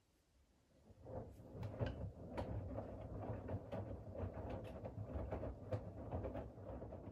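Siemens iQ700 front-loading washing machine's drum starting to turn about a second in, after a still pause, with a low rumble and irregular knocks and splashes as wet laundry and water tumble inside.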